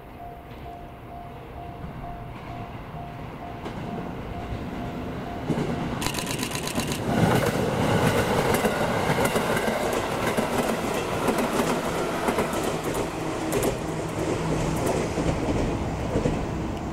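A train approaching and running past close by, wheels clicking over rail joints, growing loud about six seconds in and staying loud. A faint pulsing tone fades out before the train arrives.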